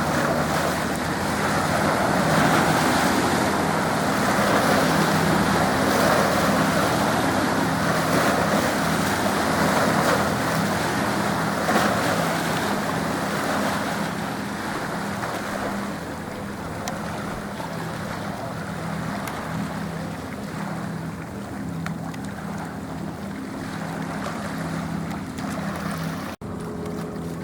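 Small waves washing against the riverbank, with the steady drone of a boat's engine underneath and wind on the microphone. The wash eases about halfway through, and the sound breaks off abruptly near the end.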